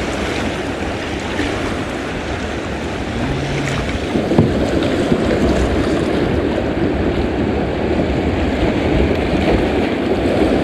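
Steady rush of water through a small river rapid around a kayak, with a couple of short knocks about four seconds in.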